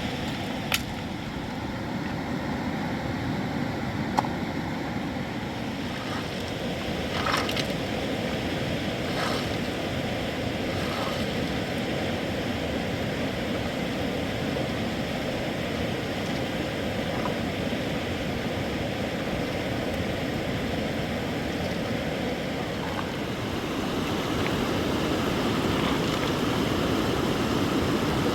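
Steady rushing of flowing river water, with a few sharp clicks and light knocks in the first third.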